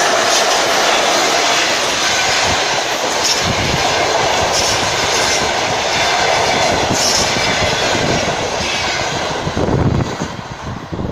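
An electric passenger train running past at speed, a steady rolling rumble with its wheels clattering over the rail joints. The noise drops off about ten seconds in.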